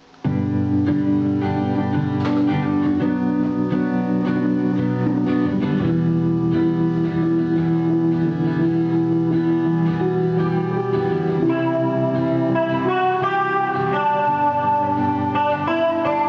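Guitar playing a slow melody of plucked notes and chords, starting abruptly just after the beginning.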